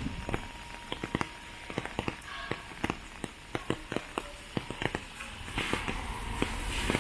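Rainy walk: irregular sharp taps, a few a second, over a faint hiss of rain.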